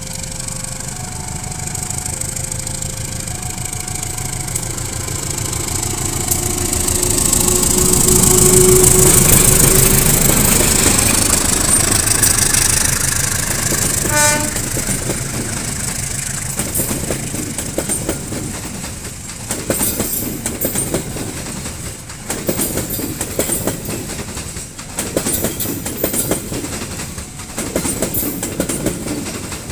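Diesel locomotive passing close with a passenger train. Its engine swells to the loudest point about ten seconds in, then the coaches roll by with a steady clicking of wheels over the rail joints.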